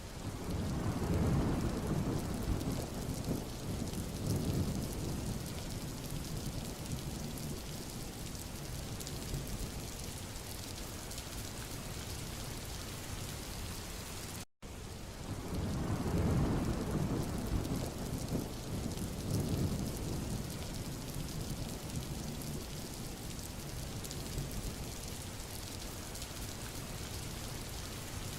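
Steady rain falling on a road, an even hiss, with a low rumble that swells and fades twice. The sound cuts out for an instant about halfway through, where the recording repeats.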